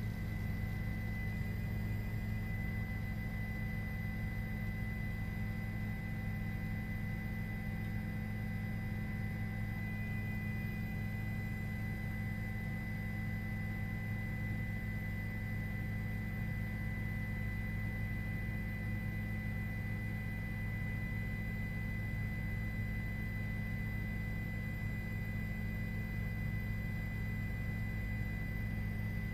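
A steady, unchanging hum, heavy in the low end, with thin constant high tones over it.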